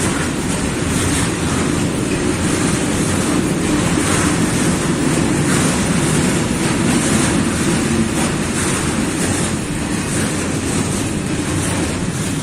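Freight train of coal wagons rolling past: a steady rumble of wheels on the rails.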